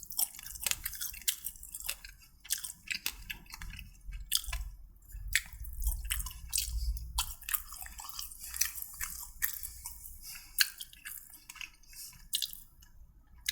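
A person chewing food close to the microphone: irregular wet mouth clicks and smacks, several a second.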